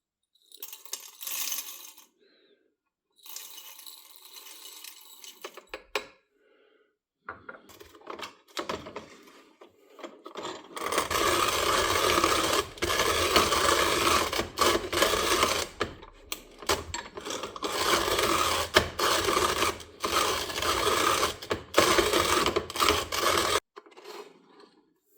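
Vintage Pede wooden hand-cranked coffee grinder: a few short rattling spells, then, about halfway in, the crank is turned steadily and the burrs grind beans in a continuous scratchy crunch for about thirteen seconds before stopping abruptly.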